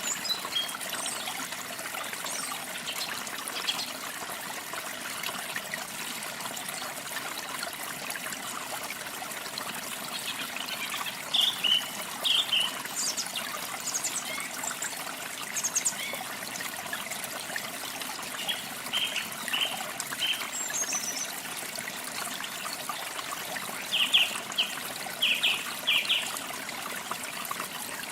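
A stream trickling steadily, with small birds chirping over it in short bursts of calls, a few clusters of which stand out.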